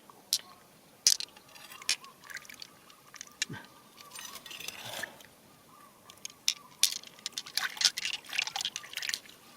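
Water dripping and splashing while wet stones and gravel click and knock together in quick, irregular taps, thickest in the last three seconds.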